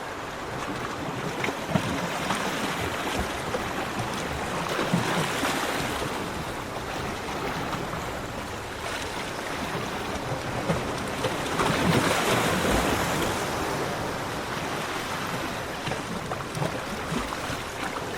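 Ocean waves breaking on a beach, a steady wash of surf that swells twice, about five and twelve seconds in.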